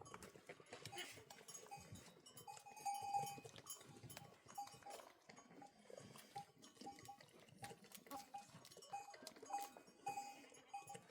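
Faint bells on a moving flock of sheep clinking unevenly, with scattered light clicks.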